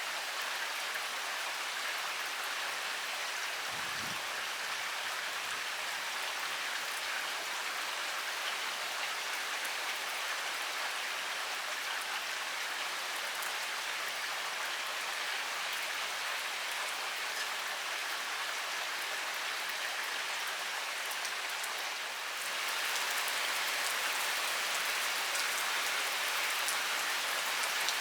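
Heavy rain pouring steadily, a dense patter of drops, growing a little louder about twenty-two seconds in.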